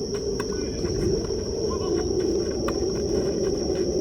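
Insects droning steadily in one unbroken high tone, over a low steady background hum, with a few faint sharp clicks.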